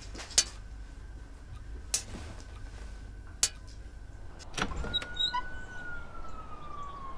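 Three sharp taps on window glass, about a second and a half apart, then a click and a long whistling tone that rises slightly and then slowly falls.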